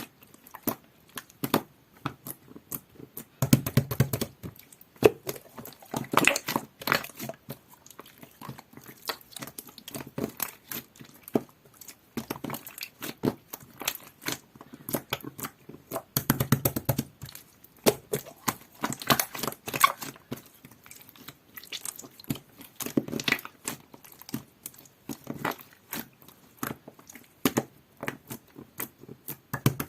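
Hands squishing and kneading a jelly-textured clear glitter slime: a steady run of small wet clicks and pops, with louder squelching presses now and then.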